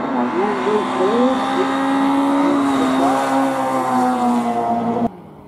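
Race car engine running hard at steady high revs for about five seconds, with a voice faintly over it, then cut off abruptly.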